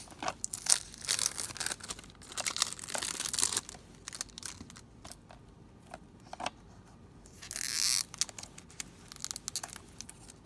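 Plastic shrink-wrap being torn and peeled off a DVD case: irregular crinkling and crackling, with one longer rip about three-quarters of the way through.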